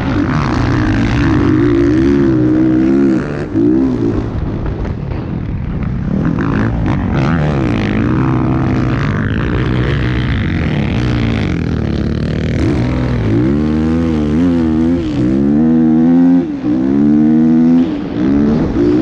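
Motocross dirt bike engines revving, their pitch climbing and dropping again and again as the throttle is opened and shut, with the swings quickest in the second half.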